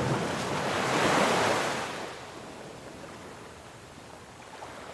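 Sea waves washing in: a swell of surf that builds to a peak about a second in and fades away, with the next wave starting to rise near the end.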